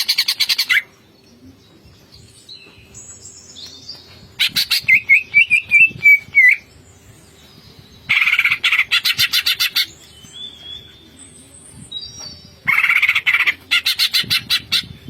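Green leafbird (cucak ijo) singing its rattling 'ngentrok' song: four loud, rapid rattling bursts, each lasting one to two seconds and coming about every four seconds, with quieter whistled and chirping notes between them.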